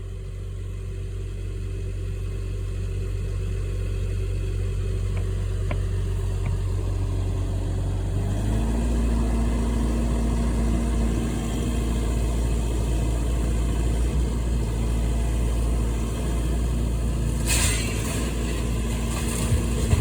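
Engine of a demolition machine running steadily, then revving up to a higher, louder pitch about eight seconds in. A brief noisy burst comes near the end.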